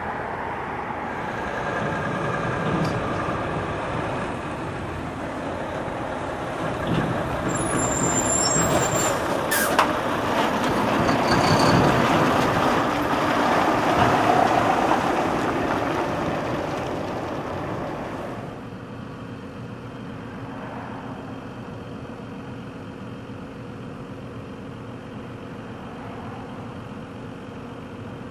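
Demolition machinery at work: a heavy diesel machine running amid dense crunching and crashing of debris, with one sharp bang about ten seconds in. About two-thirds of the way through the sound changes abruptly to a quieter, steady engine drone.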